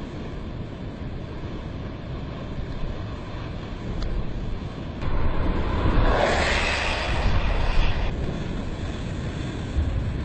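Boat under way: a steady low rumble with wind rushing over the microphone, and a louder rushing hiss that swells for about three seconds in the middle.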